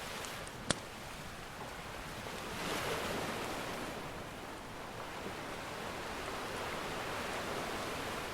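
Ocean surf washing steadily, with a wave swelling up about three seconds in. A single sharp crackle from a wood fire comes near the start.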